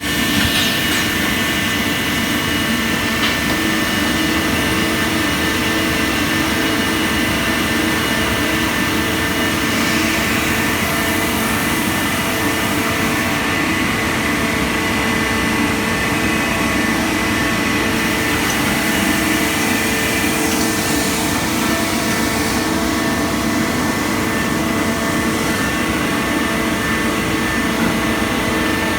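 Citizen A20 Swiss-type CNC lathe running: a steady machine hum with several constant high tones from its spindles and motors over an even hiss.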